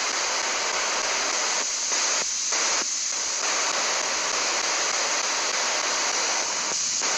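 Spirit box sweeping through radio frequencies: a steady hiss of static, broken by a few short dropouts as it jumps between stations.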